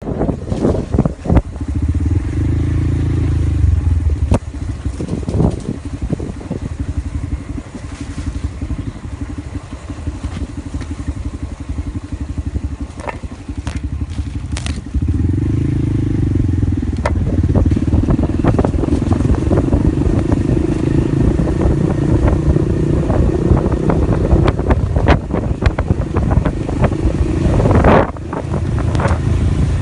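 Small motorcycle engine running under way, with scattered knocks and rattles. It runs softer for a stretch early on, then louder from about halfway, with a brief surge near the end.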